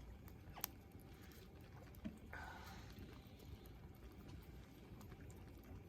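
Near silence, broken by a single sharp click about half a second in and a faint, brief hiss a little after two seconds.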